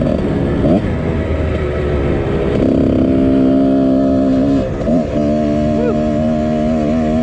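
1999 Husqvarna CR125 two-stroke dirt bike engine with a Pro Circuit exhaust, ridden under throttle. Its revs vary at first, then hold high and steady, dropping briefly about five seconds in before settling steady again.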